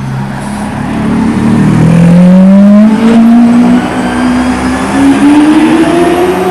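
Supercar engine revving hard as the car accelerates, its note climbing steadily in pitch over several seconds with a brief break about halfway through.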